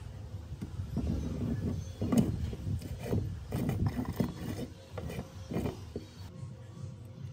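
Irregular mechanical knocks, clicks and scrapes of hand work on metal tool parts, busiest from about one to six seconds in.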